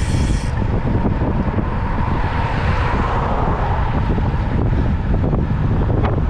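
Wind buffeting the microphone of a camera riding on a moving road bike: a steady, loud low rush, with a swell in the middle for a couple of seconds.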